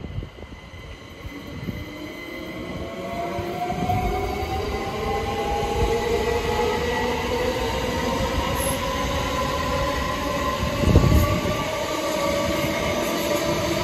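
A train running through the platform without stopping. The noise builds over the first few seconds and then holds, with a whine that slowly rises in pitch, and a heavy thump about eleven seconds in.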